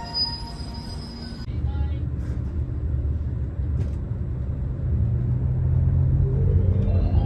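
The last tones of a station approach melody, then an abrupt change to the low, steady rumble of a train running on rails, which grows louder toward the end. A tone rises in pitch near the end.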